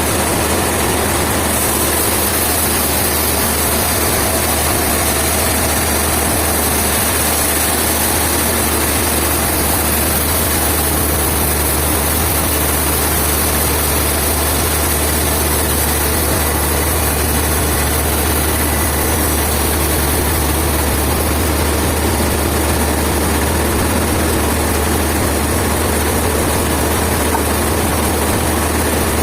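A heavy engine running steadily at an even pitch, with a strong low rumble and no change in speed.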